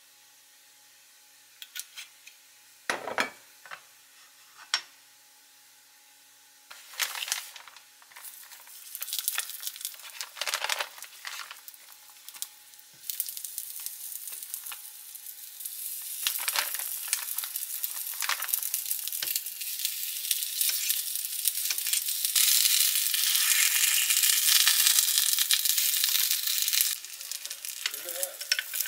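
A few knocks at first, then oil in a ridged grill pan starts sizzling as green ramie-leaf rice cakes with red bean filling are laid in to pan-fry. The sizzle comes in bursts, then settles into a steady sizzle that grows louder toward the end.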